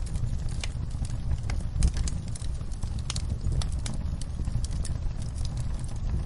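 Wood fire crackling in a fireplace: irregular sharp pops and snaps, several a second, over a steady low sound from the burning fire.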